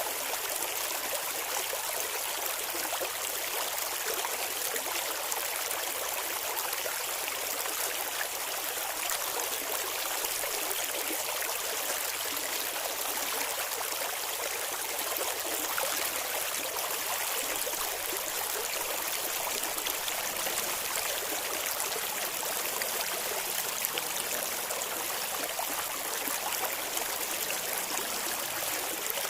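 Shallow river water flowing and babbling steadily over stones, a continuous hiss with fine splashing and no low rumble.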